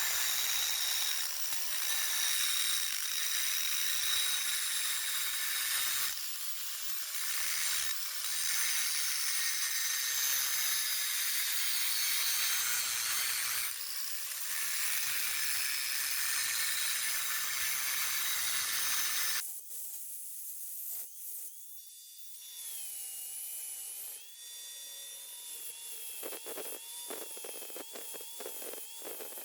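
A power grinder working steel with a high-pitched whine and hiss, stopping briefly a few times. About two-thirds of the way in it cuts off and a quieter, smaller rotary tool takes over, whining with a wavering pitch, with a run of short clicks or scrapes near the end.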